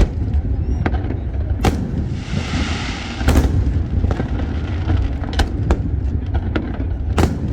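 Fireworks display: sharp bangs of aerial shells bursting every second or two, with a dense crackling hiss from a crackle effect about two seconds in, over a steady low rumble.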